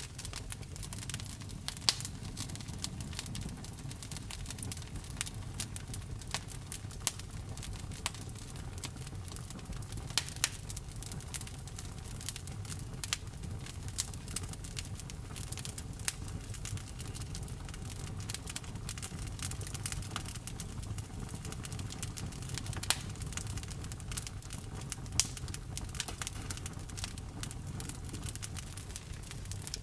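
Wood bonfire burning: irregular sharp crackles and pops from the burning wood over a steady low rumble of the flames.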